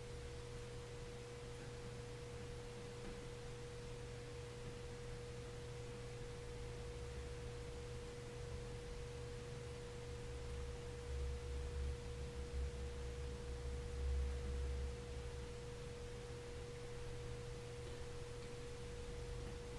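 A steady, unchanging mid-pitched pure tone over a low hum, with a few faint low thumps in the middle.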